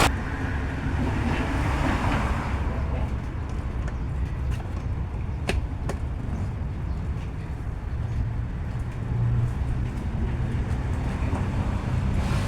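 Isuzu Mu-X diesel engine running steadily at low revs, a low even rumble, with two sharp clicks about halfway through.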